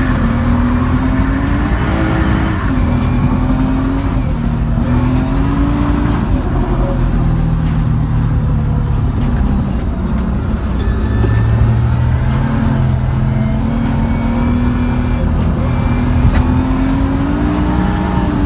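BMW E36's M50B25 straight-six, heard from inside the cabin, its revs rising and falling again and again under throttle, with music playing over it.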